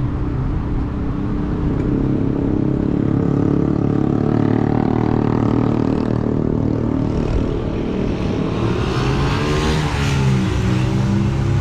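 Car engine and road noise while driving. The engine's pitch sags and then climbs again near the end, as with a gear change.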